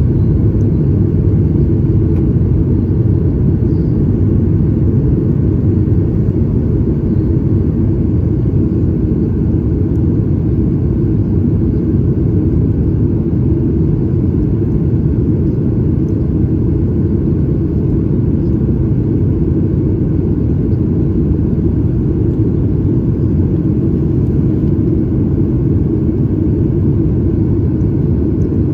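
Steady low rumble of a Boeing 737 MAX 8 heard from inside the cabin, its CFM LEAP-1B engines running. It holds even throughout, with no changes.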